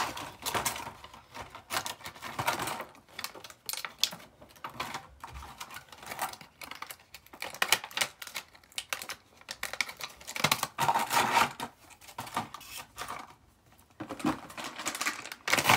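Rummaging through a basket of small items: irregular clicks and clatter of things being picked up and set down, mixed with rustling.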